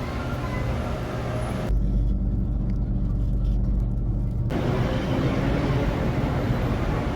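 BTS Skytrain elevated metro train running, a steady rumble with a faint motor hum. About two seconds in it switches abruptly to a deep low rumble for about three seconds, then back.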